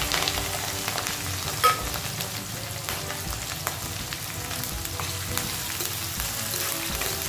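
Chopped green chillies and cumin seeds sizzling and crackling in hot oil in a kadai over a low flame, stirred with a steel spoon. A sharp clink about a second and a half in.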